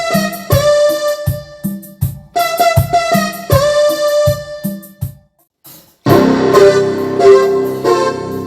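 Roland D-50 synthesizer patches being demonstrated. An electric-piano-like sound plays a rhythmic phrase over repeated bass notes and stops about five seconds in. After a short silence a different, fuller patch starts.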